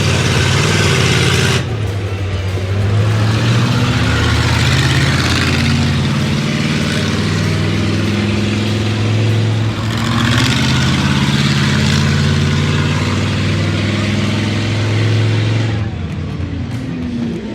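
Monster truck engine running loud under load, its revs stepping up and down, with a dip in level a few times.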